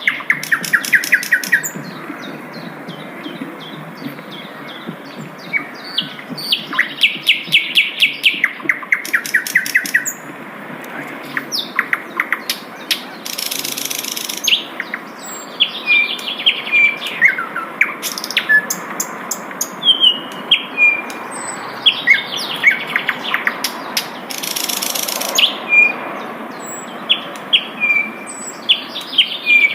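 Sikatan londo flycatcher singing: fast trills and runs of short chirps, repeated over and over. There are two brief hissing bursts, about a third of the way in and again near the end.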